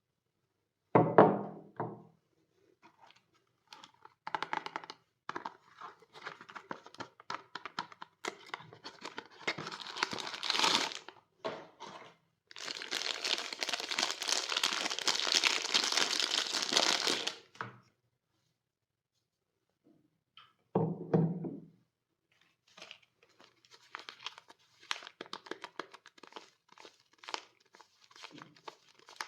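Soap wrapping being crinkled and torn open, with a long steady tear about halfway through. Two dull thunks stand out, one about a second in and one about two-thirds of the way through.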